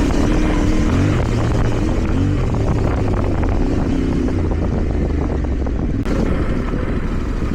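Yamaha Ténéré 700's parallel-twin engine running under load off-road, its note rising and falling with the throttle, with wind rushing over the microphone. The sound changes abruptly about six seconds in.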